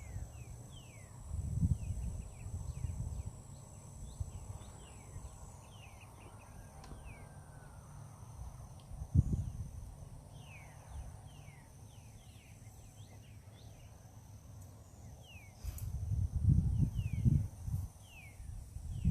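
Breeze buffeting the microphone in low rumbling gusts, the strongest about nine seconds in and again near the end. Between the gusts many faint, short, falling chirps come at an uneven pace, over a steady faint high whine.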